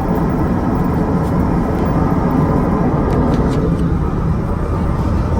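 Steady airliner cabin noise in flight: the constant drone of the engines and rushing air, with a few faint clicks about three seconds in.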